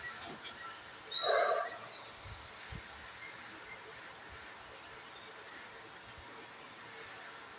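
A single short animal call about a second in, over a faint steady background.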